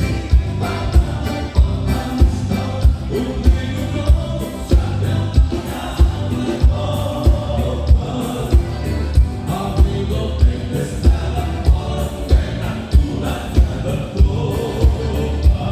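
Live gaúcho band music with a steady low drum beat, about two beats a second.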